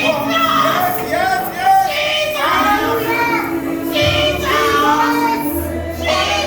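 Praise-and-worship singing: high voices sing a melody over instrumental backing. A steady low bass note comes in about five and a half seconds in.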